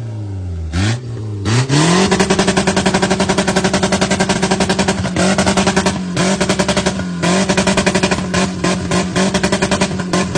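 Car engine revved hard up to its rev limiter and held there: the revs climb to a fixed ceiling and the limiter cuts the ignition in and out in a fast, even stutter. Before the climb the revs fall away after a short blip, and they dip briefly a few times before bouncing back onto the limiter.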